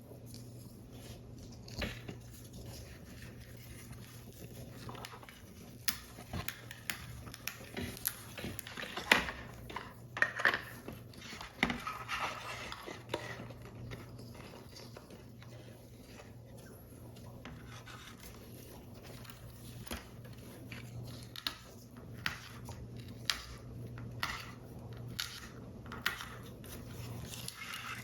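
Paper model parts being handled and assembled: irregular light clicks and taps with short stretches of paper rustling, over a steady low hum.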